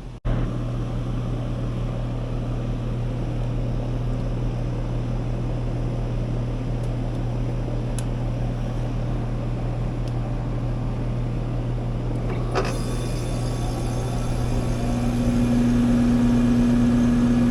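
Outdoor air-conditioning condenser units running with a steady low electrical hum and fan noise. About twelve and a half seconds in there is a click, and from about fifteen seconds a second, higher hum joins and the sound gets louder.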